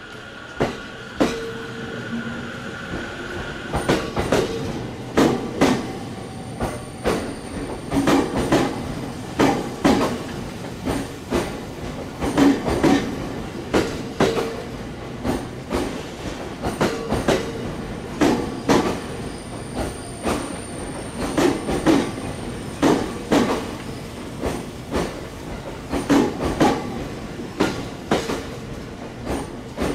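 Electric commuter train rolling slowly over rail joints and points, its wheels clacking in pairs and clusters every second or so over a steady running rumble, with a faint high wheel squeal at times.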